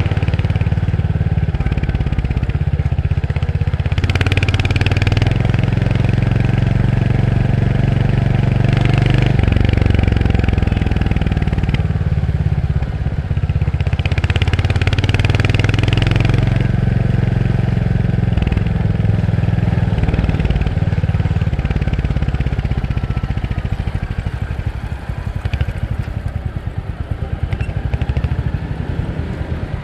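Royal Enfield Hunter 350's single-cylinder engine and exhaust running under way, its pitch climbing and dropping several times as the bike accelerates and shifts. Near the end it eases off to a quieter, slower beat.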